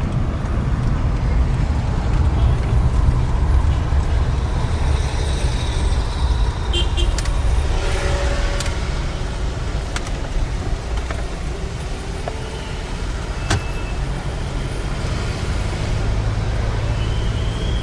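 Airbus A320 cabin noise heard from a front seat: a steady low rumble, with a few sharp clicks and rattles.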